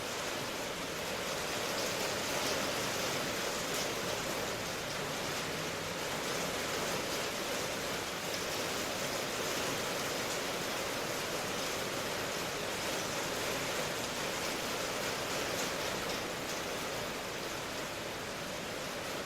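Steady heavy rain: a dense, even hiss of falling drops without a break.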